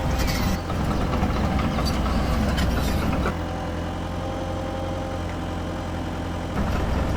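Radio-controlled toy excavator running with a steady mechanical hum. It drops in level about three seconds in and picks up again near the end.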